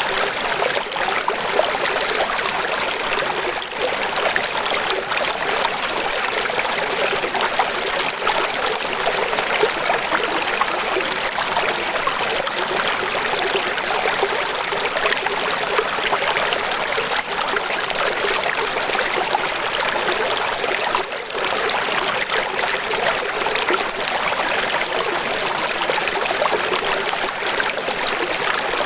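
Running water: a steady, even rush that keeps on without a break, with little deep rumble.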